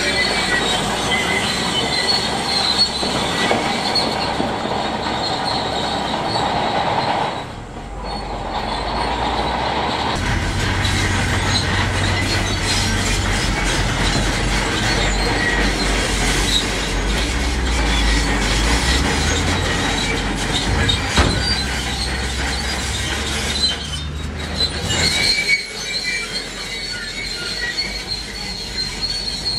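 Heavy earthmoving machinery at work: a diesel engine running under load, with a high metallic squeal typical of a crawler bulldozer's steel tracks. The squeal is strongest at the start and again near the end, and the engine drone dominates in between.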